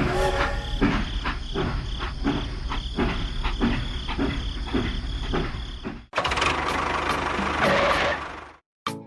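A small motor runs steadily under a regular clicking of about three to four clicks a second. About six seconds in it cuts abruptly to a rougher, denser running noise, which stops shortly before the end.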